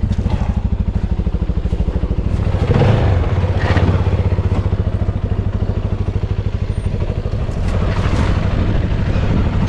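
Motorcycle engine running with a steady, rapid low pulse, with clattering and scraping around three to four seconds in.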